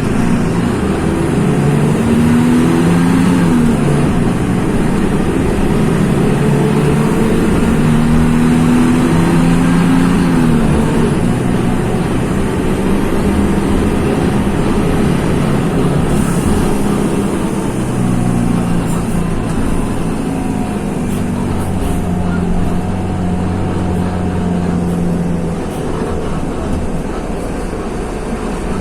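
Mercedes-Benz OM-926 LA six-cylinder turbo-diesel of an OF-1724 city bus running under load, its note climbing and falling back several times as the bus is driven through the gears.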